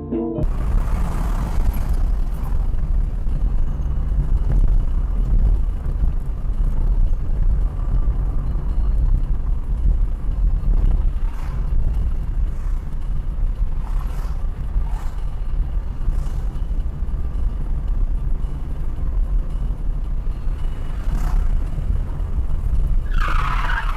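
A road vehicle on the move: a steady low rumble of engine and road noise. A brief higher-pitched squeal-like sound comes near the end.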